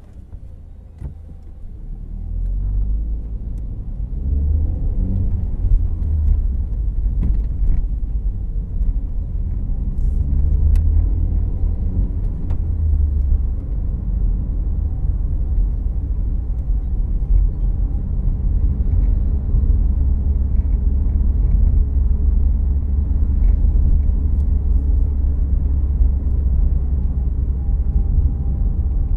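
Cabin sound of a 2014 Volkswagen Jetta Clásico on the move. It is quieter for the first couple of seconds, then the engine climbs in pitch as the car accelerates. After that comes a steady low rumble of engine and road noise as it cruises.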